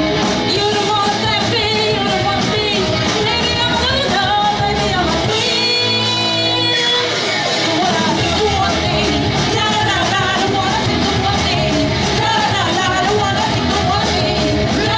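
Pop-punk band playing live: drums, bass and electric guitars with a sung lead vocal and some shouted backing vocals. A chord is held about five to seven seconds in.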